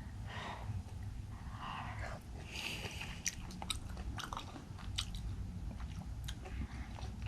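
Close-up sounds of a person chewing a mouthful of raw fish sashimi dipped in soy sauce, with many short wet mouth clicks through the second half.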